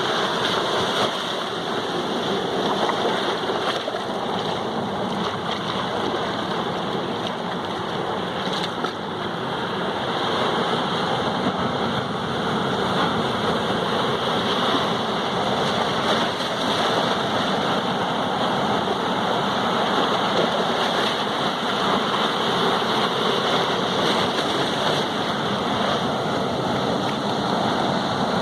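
Sea waves washing ashore: a continuous rush of surf that eases slightly a few seconds in and swells again.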